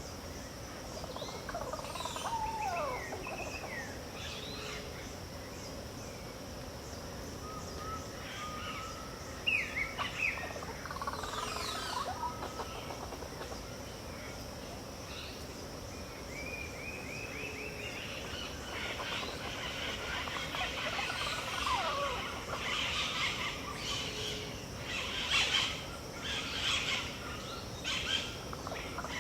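Pantanal dawn chorus: many birds of several kinds calling at once, with short chirps, whistles and gliding notes over a steady high insect drone. The calling grows busier and louder past the middle.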